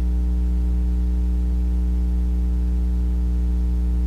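Steady electrical mains hum with a stack of buzzy overtones, unchanging throughout.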